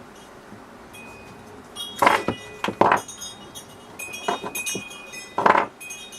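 Hard parts and tools clinking and knocking during the disassembly of a coffee machine: a string of sharp strikes, the loudest about two seconds in, near three seconds and about five and a half seconds in, some leaving a brief ringing tone.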